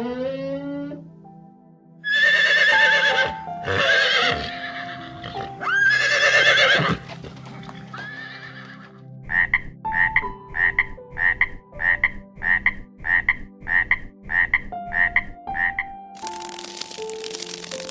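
Animal calls over soft background music: three loud, drawn-out calls in the first half, then a run of about a dozen short calls, roughly two a second. A hiss comes in near the end.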